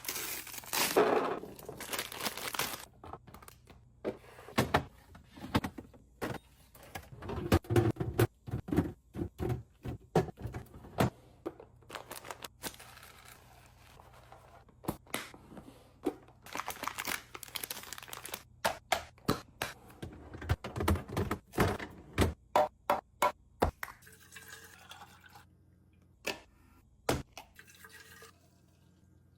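Fridge restocking: plastic and glass containers set down and handled with many sharp clacks and taps, and liquid poured into containers near the start and again about halfway through.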